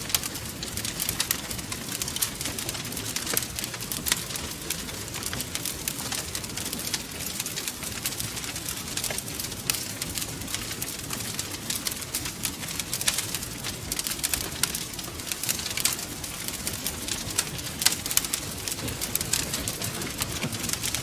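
Wood fire crackling steadily, with dense, irregular sharp pops and snaps over a low, continuous rumble of burning.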